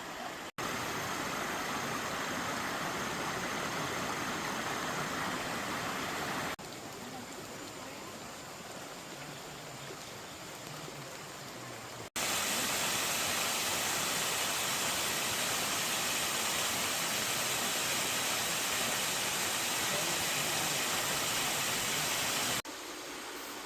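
Steady rush of flowing water from a mountain valley stream, broken by abrupt cuts into several shots of different loudness, the loudest in the second half.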